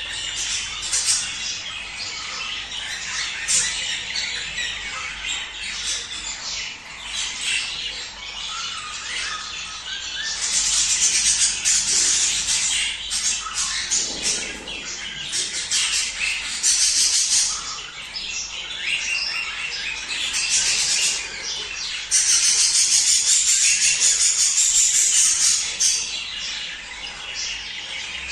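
Budgerigars chattering and warbling continuously, the dense breeding-season chatter of a budgie flock, with several louder stretches of squawky calls, the longest near the end.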